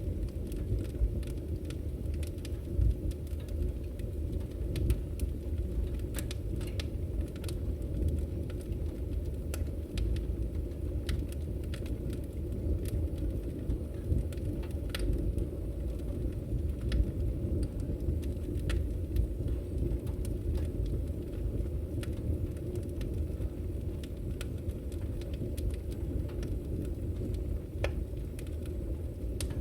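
Firewood burning in a fireplace, crackling with many scattered sharp pops and snaps over a steady low rumble.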